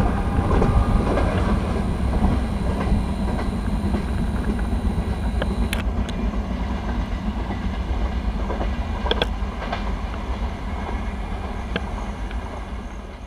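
Hazrat Nizamuddin–Trivandrum Rajdhani Express running past on the track at speed: a steady heavy rumble with scattered sharp wheel clicks, slowly fading near the end.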